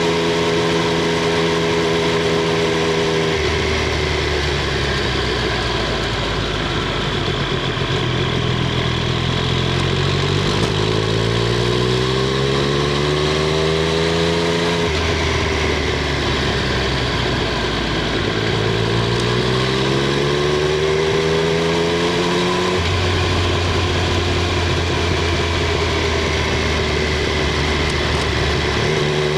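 Triumph Street Triple 765 R's inline three-cylinder engine and exhaust under way. It pulls up in pitch in two long accelerations, each ending in a sudden drop, with steady, lower-revving stretches between them.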